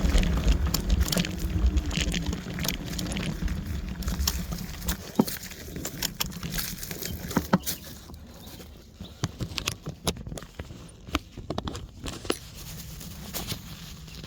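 Wolf Warrior electric scooter rolling down a dirt trail: wind and tyre rumble with a faint motor whine for about the first five seconds. Then the rumble drops away, leaving scattered crackles and taps.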